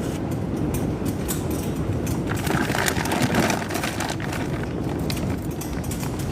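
Strong wind buffeting the microphone in a steady low rumble, with scattered light clicks and knocks throughout and a brief louder gust in the middle.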